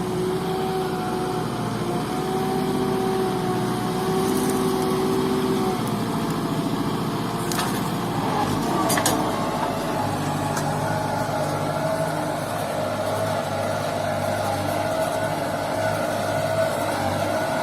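Small tractor engine running steadily, its note shifting to a different pitch about halfway through, with a couple of brief knocks.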